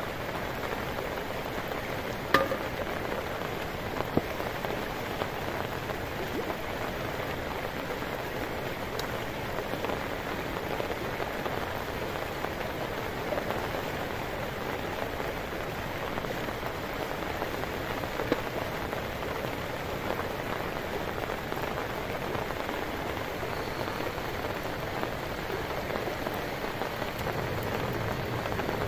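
Steady heavy rain falling, an even hiss without a break. A few short sharp knocks stand out, the loudest about two seconds in and others about four and eighteen seconds in.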